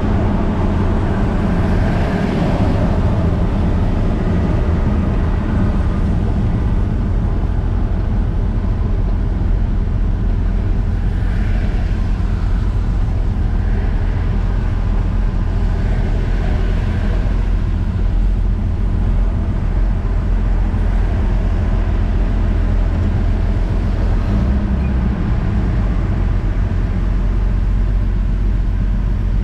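1965 Chevrolet C10 pickup's inline-six engine running while driving in traffic: a steady low drone of engine and road noise, with a few brief swells of higher-pitched noise.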